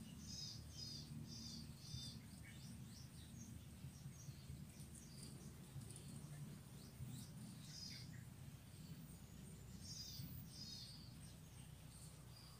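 Bird calling faintly in short runs of quick, high notes, two to four at a time, repeated several times, over a low steady background rumble.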